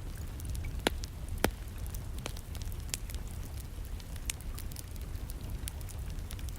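Wood fire crackling in a fireplace, with scattered sharp pops, two louder ones about a second in, over a steady background of distant rain.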